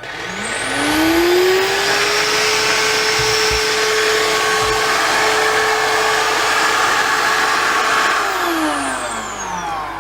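SilverCrest SHAZ 21.6 B2 cordless vacuum cleaner's 130 W motor switched on: a rising whine as it spins up, then running steadily with a rush of air. About eight seconds in it is switched off and the whine falls away as the motor winds down.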